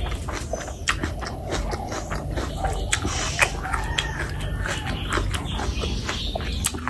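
Close-miked wet chewing of oily chicken skin curry and rice, with many irregular mouth smacks and squelching clicks.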